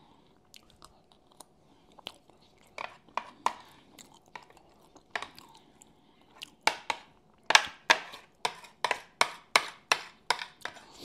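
Close-miked chewing with wet mouth smacks and clicks: sparse at first, then from about seven seconds in a steady run of about three sharp smacks a second.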